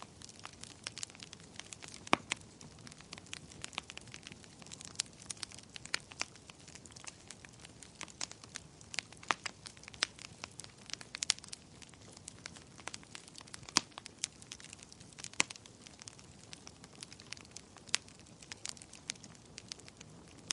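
Wood fire crackling steadily, a dense run of irregular small snaps and pops over a soft hiss, with a few louder pops now and then.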